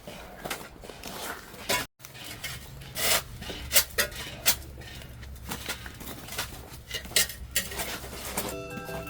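Shovel scraping and chipping ice off the ground in irregular strokes, clearing a slippery patch. Music starts near the end.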